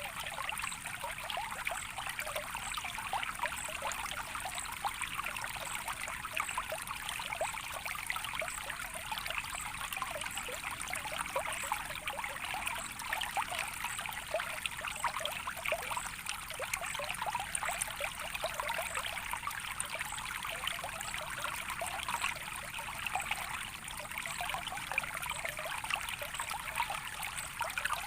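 Natural running water, a small stream trickling and babbling steadily with many fine splashes.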